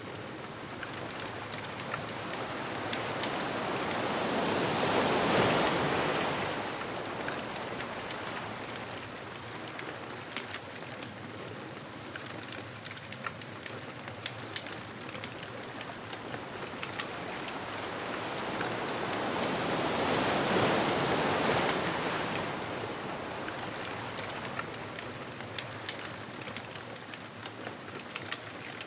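Ocean surf: two waves swell up and wash onto the shore, peaking about five seconds in and again about twenty seconds in, over a steady hiss of water. A bonfire crackles with scattered small pops throughout.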